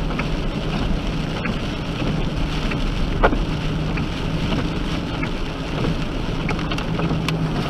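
A car driving, with steady road noise and a low engine hum as picked up by a dash cam, and a few faint clicks.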